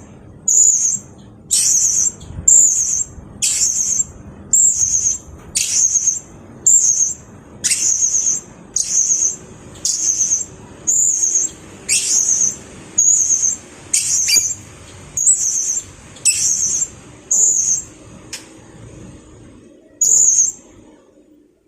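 Blue-crowned hanging parrot (serindit) calling: a long series of short, very high-pitched notes, about one a second, that stops shortly before the end.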